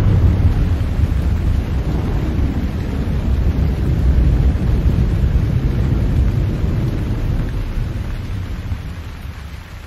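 Thunder: a long, low rolling rumble that slowly dies away toward the end.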